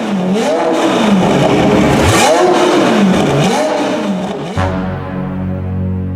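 Ferrari 812 Superfast's 6.5-litre V12 breathing through an FM Performance stainless sport exhaust, revved repeatedly in quick blips that rise and fall in pitch. About two-thirds of the way in, the sound changes abruptly to a steady low hum.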